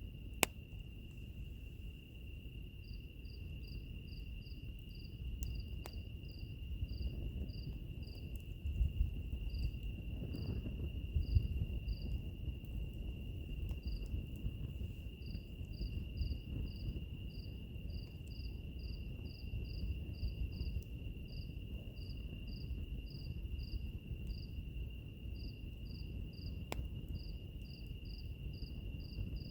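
Wood fire crackling, with a dense low rustle and a few sharp pops, under night insects: a steady high trill and a run of short cricket-like chirps, about two or three a second.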